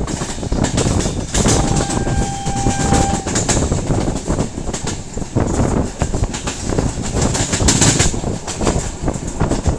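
Train running on the rails: a loud, continuous rumble with wheels clattering over rail joints. A thin, steady high tone sounds for about two seconds starting around a second and a half in.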